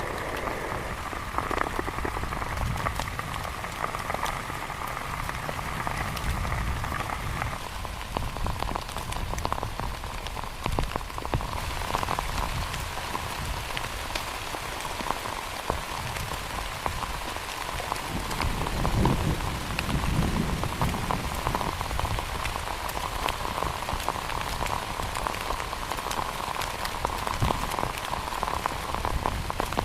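Heavy rain falling, a dense steady patter of many drops striking a surface close by. It grows harsher and brighter a little under halfway through.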